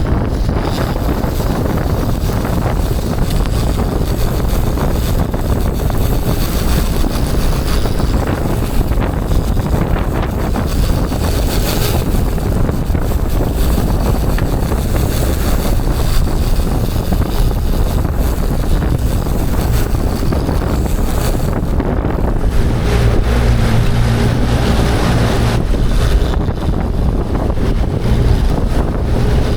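Wind buffeting the microphone on a fishing boat under way, over the boat's motor running steadily and the rush of water. A low engine hum comes through more plainly in the last several seconds.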